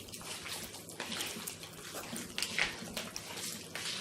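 Chicken pieces being mixed in a wet marinade of lemon juice, oil and seasoning: irregular wet squishing and sloshing.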